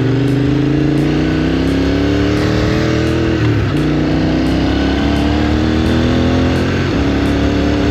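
Triumph Scrambler motorcycle's parallel-twin engine pulling through the gears. The pitch climbs, drops at an upshift about three and a half seconds in, climbs again, and drops at a second upshift near the end.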